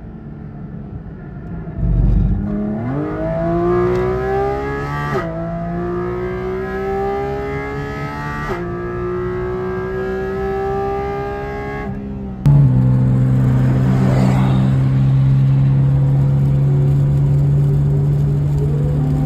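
Sports car engine accelerating hard on a race track, heard from inside the cabin: the revs climb and drop sharply with quick upshifts about five, eight and twelve seconds in. After a sudden cut, a louder engine holds steady revs, then starts revving up again near the end.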